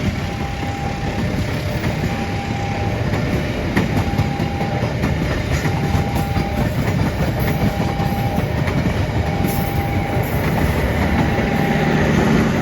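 A train passes at speed through a level crossing with clattering wheels and loud rolling noise. The crossing's warning signal sounds over it, a two-note tone, high then low, repeating about every two seconds.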